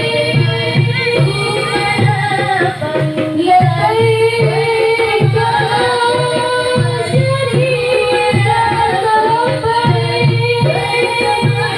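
Marawis ensemble playing a devotional song: a singing voice carries a wavering melody over a steady pattern of low hand-drum beats.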